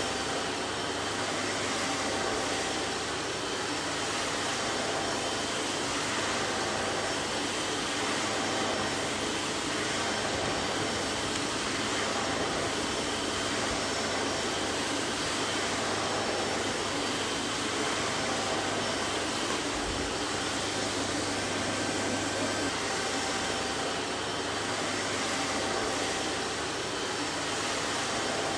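Vacuum cleaner running steadily: an even rushing of air through the motor with a faint steady whine and a low hum, unchanging throughout.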